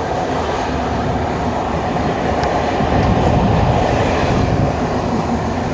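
Sleeper train running along the track, its wheel and rail noise loud and steady, as if through an open cabin window, swelling a little midway.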